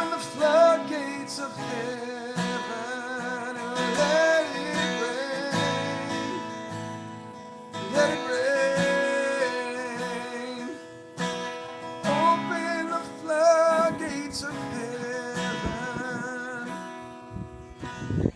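Acoustic guitar strummed with a man's voice carrying a slow melody over it, wavering on long held notes.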